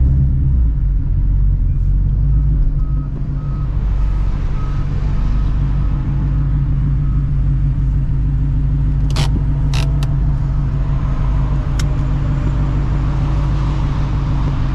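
A car engine running steadily at idle, with a few sharp clicks about nine to ten seconds in and another near twelve seconds.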